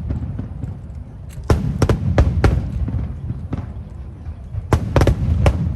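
Aerial fireworks shells bursting: a cluster of sharp bangs about a second and a half in, another cluster about five seconds in, over a steady low rumble.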